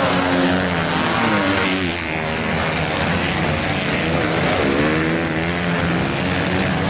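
Several motocross bike engines running and revving together, their pitches rising and falling and overlapping.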